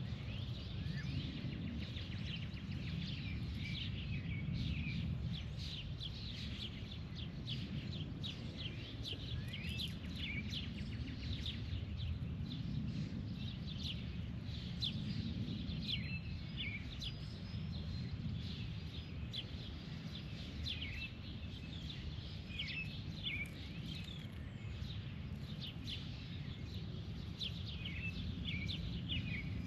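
Birds chirping and calling, a steady run of many short calls, over a continuous low rumble.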